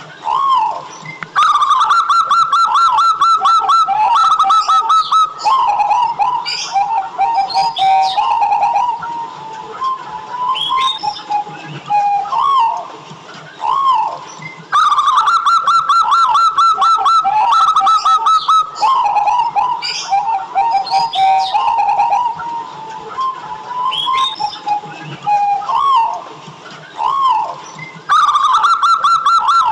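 Zebra doves (local perkutut) singing: runs of quick, clear cooing notes ending in rounded coos. A faster, higher run of notes starts about a second in, then again around fifteen and twenty-eight seconds, as the same sequence repeats about every thirteen or fourteen seconds.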